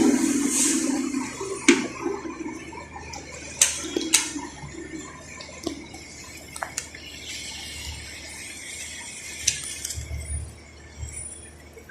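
Petrol being pumped into a car: the fuel dispenser's steady hum stops about a second in, followed by scattered clicks and knocks, likely the nozzle and filler cap being handled.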